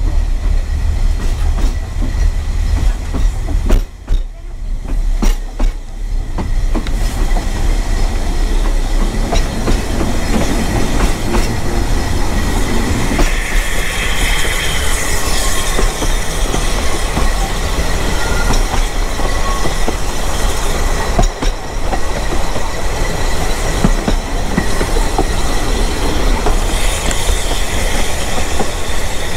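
Narrow-gauge railway carriage running over the track, with a steady rumble and clatter of wheels on rail joints, and the wheel flanges squealing on a curve around the middle. Wind buffets the microphone held out of the window.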